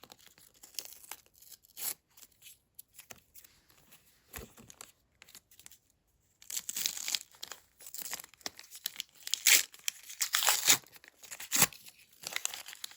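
Paper surprise packet being torn open and its paper contents rustled and crinkled, in irregular crackling bursts. The sound stops briefly about five seconds in, then comes back louder and busier with tearing and rustling.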